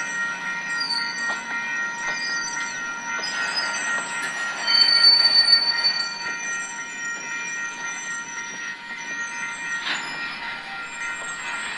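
Freight cars rolling past, their wheels squealing in several high steady tones. A louder, higher squeal stands out for a second or so about five seconds in.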